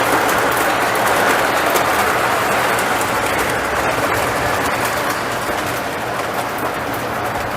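Lionel model train running along the track: a steady rolling rumble and rattle of wheels and motor with scattered small clicks, easing off slightly near the end.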